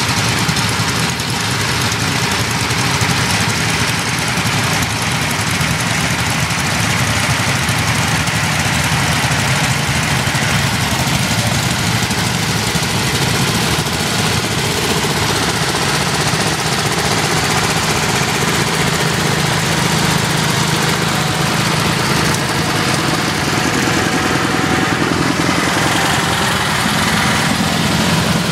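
Several vintage Sears garden tractors' small Tecumseh and Onan engines idling together in a steady, dense drone.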